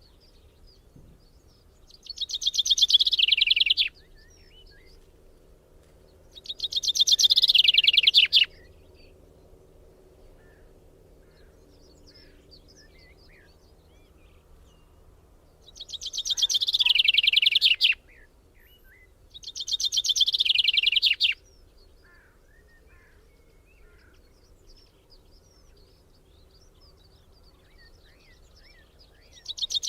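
A bird singing four loud, rapid trilled phrases of about two seconds each, with two close together near the start and two more past the middle, and faint chirps between them.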